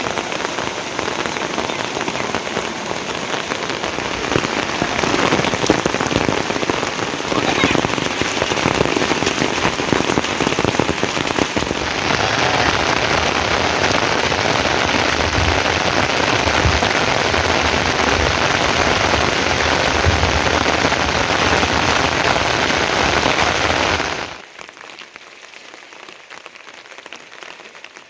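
Heavy rain falling steadily as a dense hiss, getting a little louder about halfway through, then dropping off suddenly near the end to a much quieter patter.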